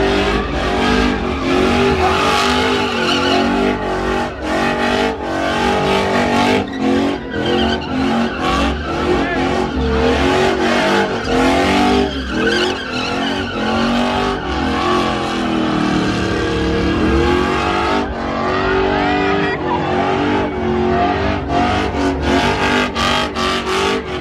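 Truck engine revving hard during a burnout, its pitch rising and falling with many quick cuts, while the spinning tyres squeal.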